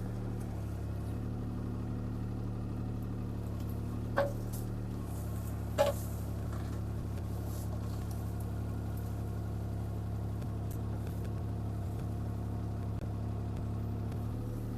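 CAT 303C CR mini excavator's diesel engine running steadily, with two short sharp knocks about four and six seconds in as the bucket works the ground around a tree root.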